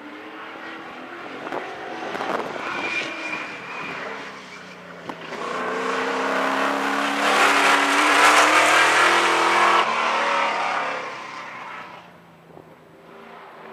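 Modified race car's LS-based V8 engine running on track, growing louder as the car comes near, loudest for a few seconds in the middle, then dropping away quickly as it goes past.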